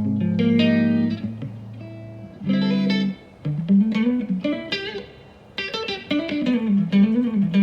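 Guitar playing: a couple of ringing chords struck early, then a single-note melodic line with bending, wavering pitch.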